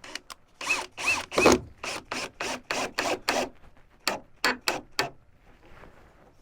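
Rapid run of short mechanical rasping strokes from cabinet woodworking, two to three a second, followed by four sharper strokes about four seconds in.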